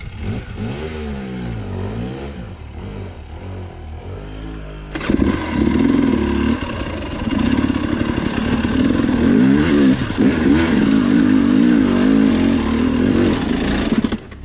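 KTM two-stroke dirt bike engine revving hard, its pitch rising and falling with throttle blips through the first few seconds. About five seconds in it turns louder and holds high, wavering revs, as a bike claws its way up a steep rock climb.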